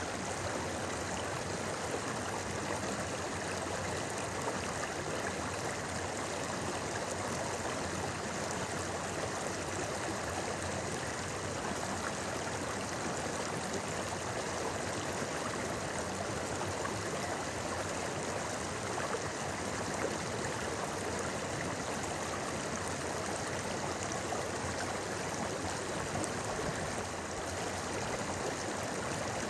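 A shallow river babbling over rocks, a steady, even rush of flowing water.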